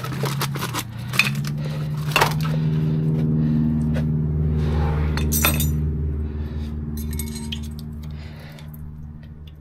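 Light metallic clinks of brake pads and their hardware being handled, over a steady low hum.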